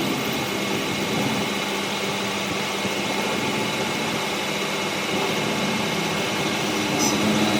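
Metalworking machine running steadily in a workshop: a constant mechanical hiss and hum with a faint high whine. The tone shifts slightly near the end.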